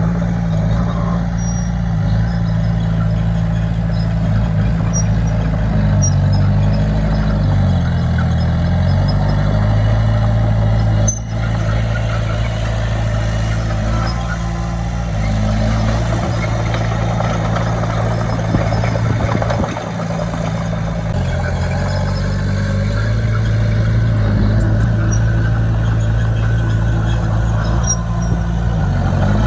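Diesel engine of heavy earthmoving machinery running under load, its engine speed dipping and picking up again several times as the machine works.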